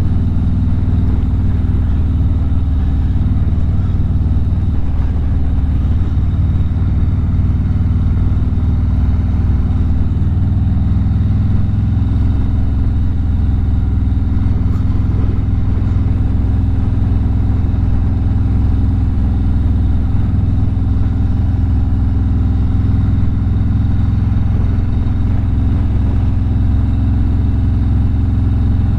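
Harley-Davidson V-twin motorcycle engine running steadily at cruising speed on the open road, its low rumble holding an even pitch.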